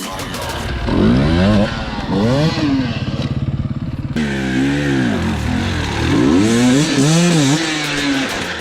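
Dirt bike engine revving, its pitch rising and falling several times in quick throttle blips, with a sudden change in the sound about four seconds in.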